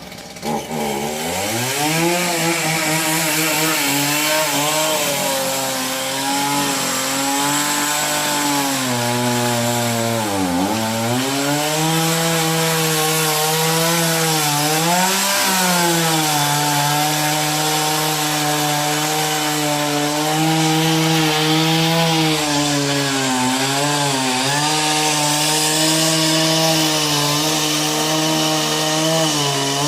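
Two-stroke chainsaw running at high revs and cutting into a wooden pole. Its pitch sags briefly a few times as the chain bogs in the wood, then picks up again.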